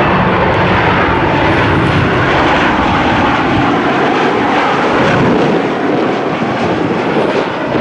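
Boeing 737 MAX 8 airliner's CFM LEAP-1B jet engines passing on landing approach: a loud, steady rush of jet noise with a faint whine that slowly falls in pitch.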